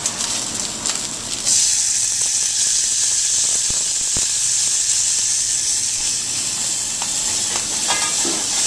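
Corn kernels sizzling in hot olive oil in a saucepan: a steady frying hiss that jumps suddenly louder about a second and a half in as the corn hits the oil, with a couple of light knocks a few seconds later.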